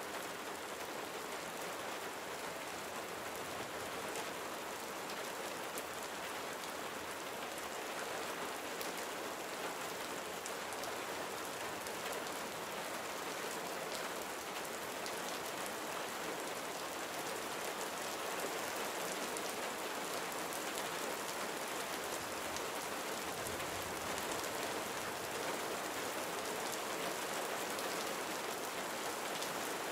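Steady gentle rain falling, a soft even hiss of many drops pattering on surfaces.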